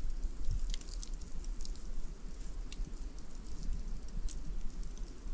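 Wood fire crackling, with sharp irregular pops over a steady low rumble.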